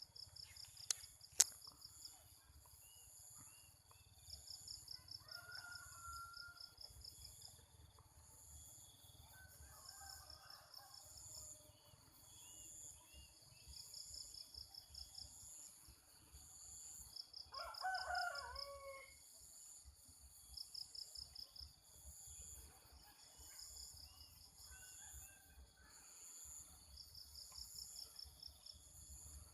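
Rural morning ambience: insects chirping in rhythmic pulsed trills over a steady high insect hiss, with a rooster crowing once a little past halfway. Two sharp clicks sound about a second in.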